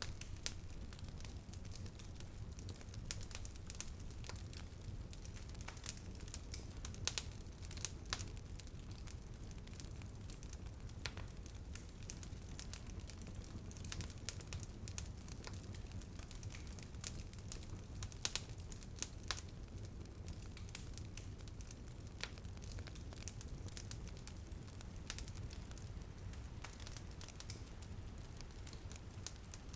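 Wood fire crackling in a fireplace: irregular sharp pops and snaps, a few louder ones, over a steady low rumble, with light rain on a window beneath.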